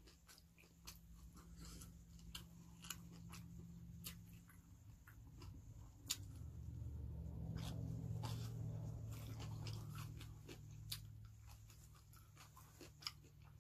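Close-miked chewing and eating sounds: a person eating noodles by hand, with many scattered wet mouth clicks over a low steady hum that swells in the middle and fades near the end.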